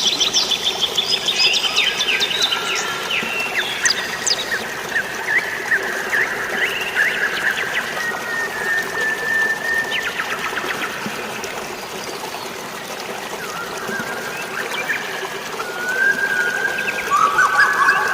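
Forest birds chirping and singing, with quick trills and held whistled notes, over a steady rush of water.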